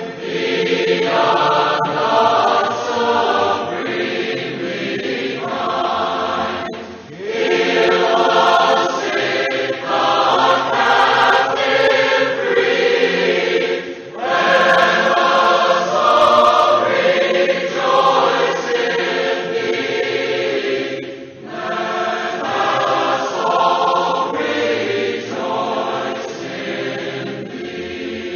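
A choir singing a hymn, the voices held in sung phrases several seconds long with short breaths between them.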